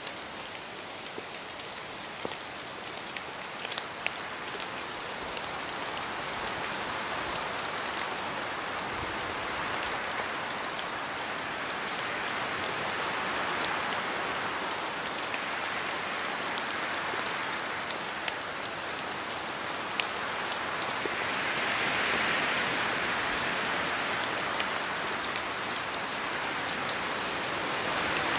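Steady rain falling, with many separate drops ticking close by over an even hiss. The hiss swells and eases in waves, like gusts of wind, and is loudest about three-quarters of the way through.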